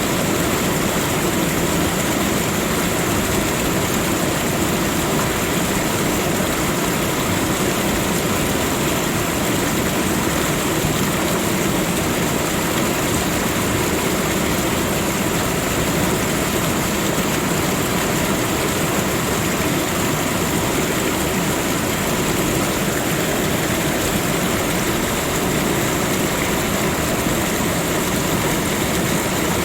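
Steady rushing water, an even, unbroken wash of sound.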